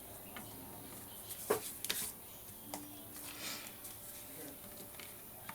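Paper booklet and craft materials being handled on a table: a few light taps and clicks, the sharpest about one and a half and two seconds in, with faint paper rustling between them.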